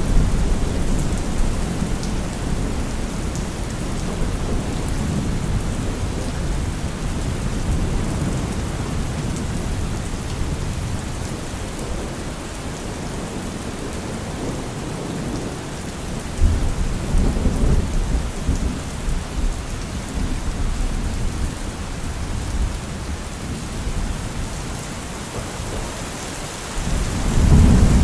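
Steady rain falling, with rolls of thunder rumbling low: one near the start, one about two-thirds of the way through, and a louder one starting near the end.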